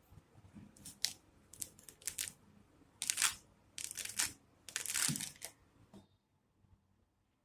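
A series of rustling, crinkling swishes of something being handled, loudest around the middle, then stopping about a second before the end.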